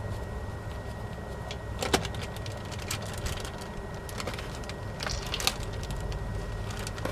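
Scattered metallic clicks and knocks of hand tools being handled and set against metal, the sharpest about two seconds in and a cluster around five seconds, over a steady low hum.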